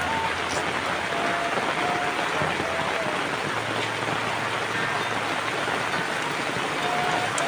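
Steady rain falling, an even hiss with no break, with a few short faint tones sounding over it now and then.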